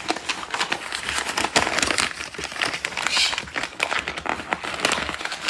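Paper crinkling and crackling in irregular bursts as it is scrunched up by hand, wrapping a nut as a treat.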